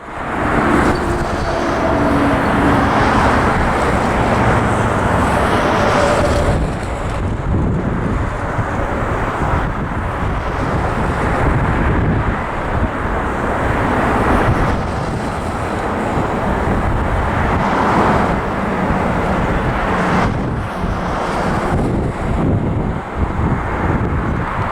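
Boeing 747-400's four jet engines running loud and steady, with wind buffeting the microphone.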